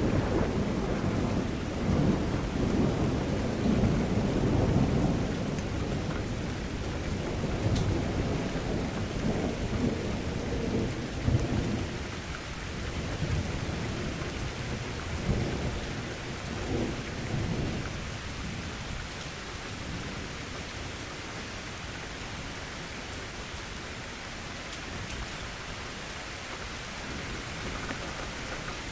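Steady rain with thunder rolling through the first half, the rumble easing off after about twelve seconds and leaving the rain on its own.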